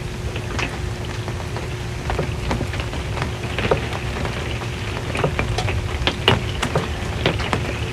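Rain falling on an RV's metal roof: a steady patter with irregular sharp taps from heavier drops.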